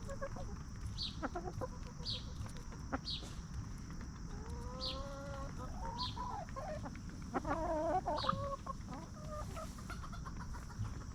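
Free-range hens clucking, with a few longer drawn-out calls in the middle. A short high chirp repeats about once a second over a steady high hiss.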